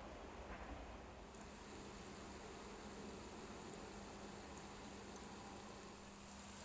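Faint steady hiss over a low steady hum; the hiss turns brighter about a second in.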